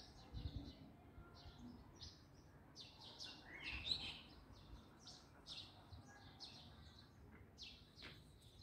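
Small birds chirping faintly, with short high chirps repeated throughout and one louder rising call about four seconds in. A soft low thump comes about half a second in.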